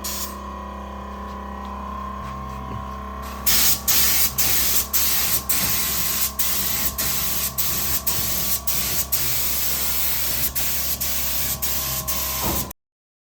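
Air-driven paint spray gun hissing in short, rapid bursts as the trigger is pulled and released about two to three times a second, laying a wet coat over the engine bay. The hissing starts about three and a half seconds in over a steady mechanical hum, and cuts off abruptly near the end.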